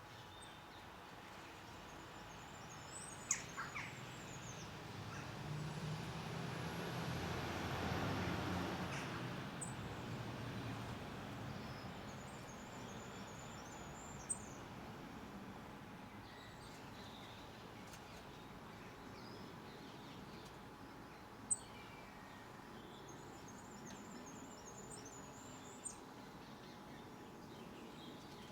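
Small garden birds chirping in short high twittering phrases several times, with a few sharp taps; the loudest tap comes about two-thirds of the way in. In the first half a broad rumbling noise swells for a few seconds and fades away.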